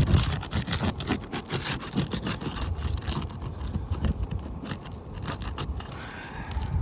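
Damaged asphalt shingle being worked loose and slid out from under the course above: a run of scraping and crackling, busiest in the first three seconds or so.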